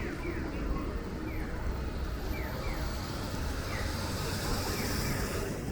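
Steady rumble of city street traffic, with a short falling electronic chirp repeating about once a second.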